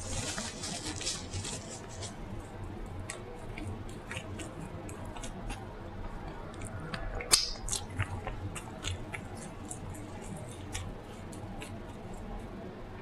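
Close-miked eating sounds: chewing with wet mouth clicks and lip smacks, with one louder sharp smack about seven seconds in.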